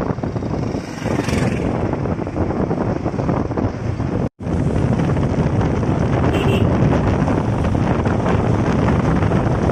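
Motorcycle riding sound: wind buffeting the microphone over the engine and road noise, steady throughout, with a brief dropout a little before halfway.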